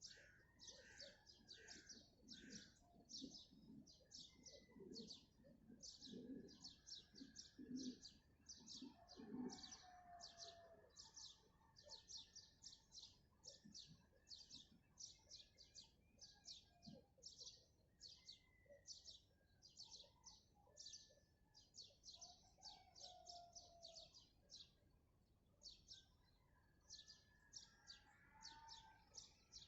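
Faint chorus of small songbirds chirping rapidly and continuously, several sharp chirps a second. A dove coos low in the background during the first third.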